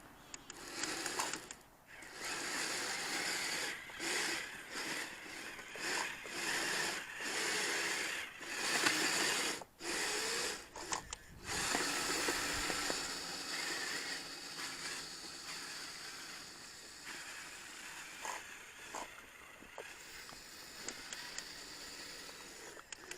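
Small electric motors and tracks of radio-controlled tracked vehicles driving in stop-start surges with a whirring whine, then running more steadily and fading after about halfway.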